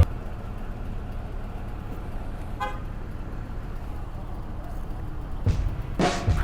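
Low street-traffic rumble with a brief car-horn toot about midway, and a couple of sudden knocks near the end.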